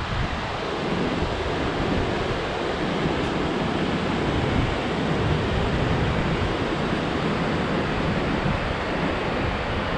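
Steady rush of water pouring down a waterfall cascade.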